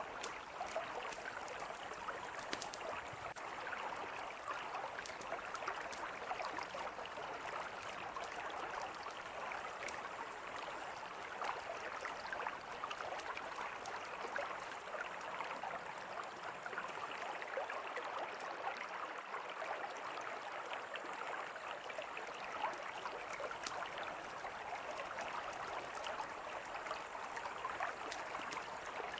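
Steady rush of a mountain river flowing, with a campfire crackling over it in scattered small pops and snaps.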